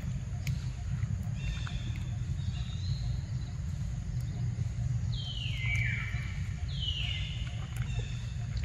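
Birds calling over a steady low rumble: a few short high whistled notes in the first few seconds, then two long whistles that slide downward in pitch, about five and seven seconds in.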